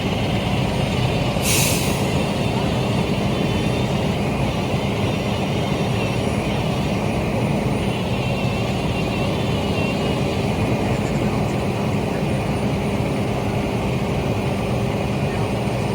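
Large vehicle's engine running steadily, with one short hiss of air about a second and a half in.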